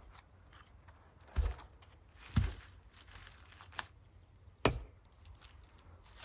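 Firewood being chopped: three sharp chopping knocks, each with a deep thud, about a second and then two seconds apart.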